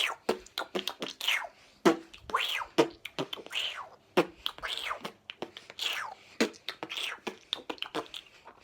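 Beatbox-style mouth sound: a person's mouth making repeated downward-sliding swoops, about one every second, with sharp clicks and pops between them, made by puffing air into the cheeks and letting it out.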